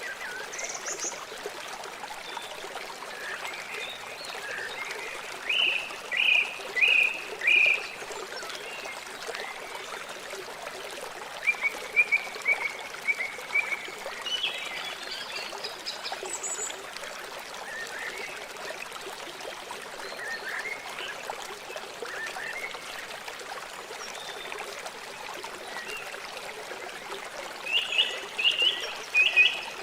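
River water flowing with a steady rush. Over it, short high animal calls come in quick runs of three or four notes, three times.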